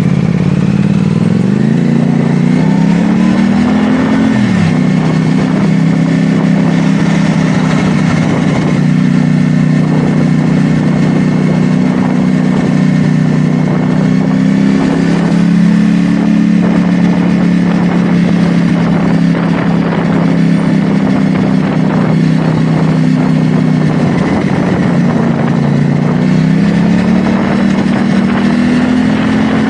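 CFMoto 450SR S parallel-twin engine under way. The revs climb over the first few seconds and drop suddenly about four and a half seconds in, as at a gear change, then hold steady before rising again near the end.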